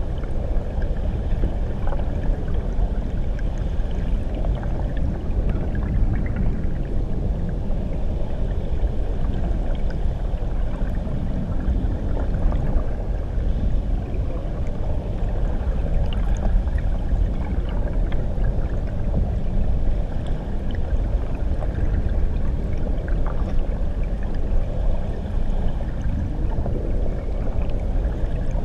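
Muffled underwater recording of water churning beneath a waterfall: a steady low rumble, with faint scattered ticks of bubbles higher up.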